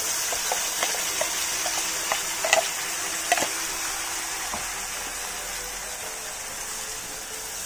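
Wet ground masala paste sizzling in hot oil in a pan, a steady high hiss with scattered sharp pops and clicks. The sizzle slowly dies down toward the end.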